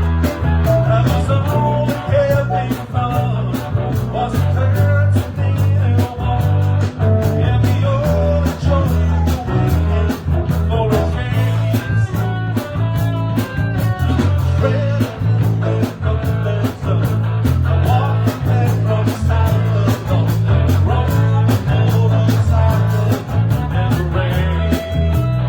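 Live band playing rock music, with guitar, a moving bass line and a steady beat.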